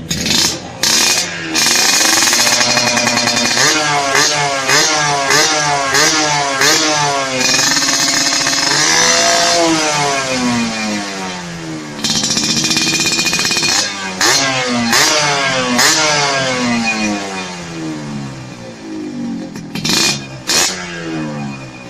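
Yamaha RX-King two-stroke single-cylinder engine, fitted with an aftermarket exhaust, being revved over and over: its pitch climbs and falls in repeated sweeps, with a few sharp cracks near the start and near the end.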